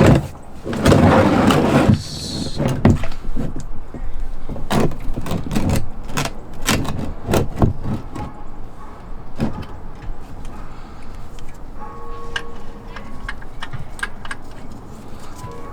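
A loud scrape at first, then a long run of sharp metal clicks and knocks: an adjustable wrench being fitted to and worked on a car's oil drain plug.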